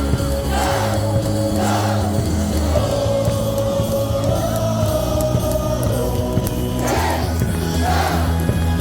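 Cheer song played loud over a stadium's speakers, with a heavy bass line and held notes, and the crowd singing and shouting along in bursts.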